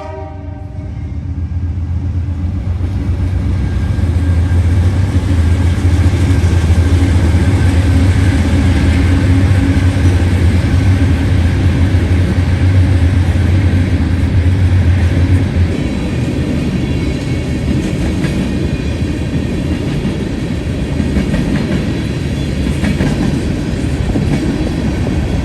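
Empty ethanol unit train passing, led by BNSF diesel locomotives. The locomotives' engines make a loud, deep drone that builds over the first few seconds and drops away about two-thirds of the way through. The empty tank cars then roll by with steady wheel-on-rail noise.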